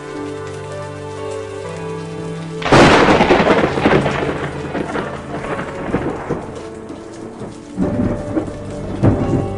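A sudden thunderclap about three seconds in that rumbles away over several seconds, with a second rumble near the end, over steady rain and soft sustained music notes.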